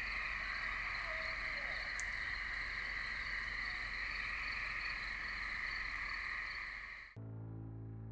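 Steady night chorus of crickets and katydids, several layers of shrill trilling, with a faint short wavering call about a second in and a single tick about two seconds in. The chorus cuts off abruptly near the end and gives way to soft piano music.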